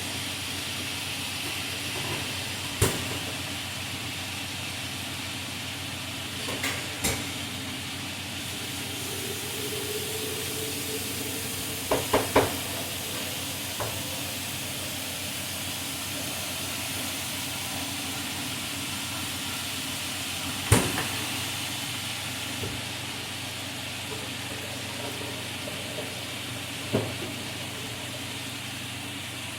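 Food sizzling steadily in a hot frying pan, with a few sharp clicks and knocks of a utensil against the pan.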